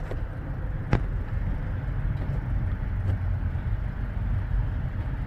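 Steady low engine rumble, with two sharp clicks about a second and three seconds in.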